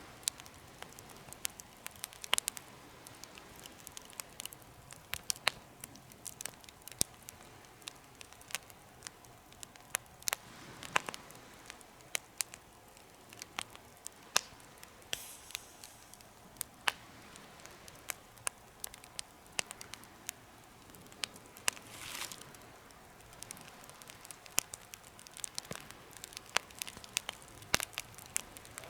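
Wood fire burning in a homemade fire pit, crackling with sharp, irregular pops and occasional louder snaps over a faint steady hiss, with two brief spells of hissing.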